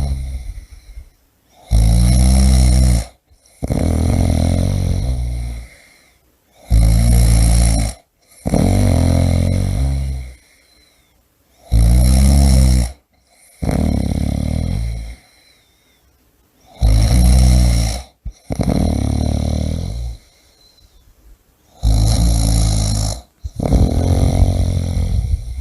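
A person snoring deeply and steadily: a loud, rasping snore about every five seconds, each followed by a softer breathy stretch.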